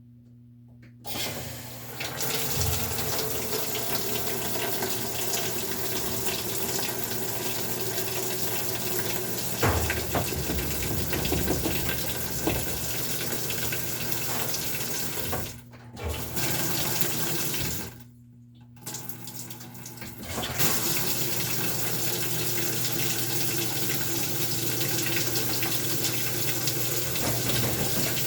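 GE top-load washer filling: water rushing into the tub through the inlet valve, starting about a second in and cutting out twice briefly in the later part before running on steadily.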